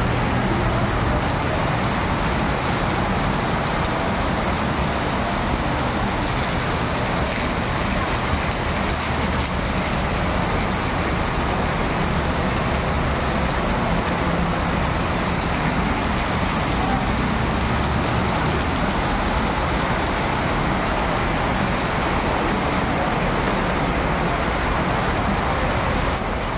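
Heavy tropical rain pouring steadily onto a paved street and metal roofs, with runoff splashing down from the roof edges, and a low rumble of road traffic underneath.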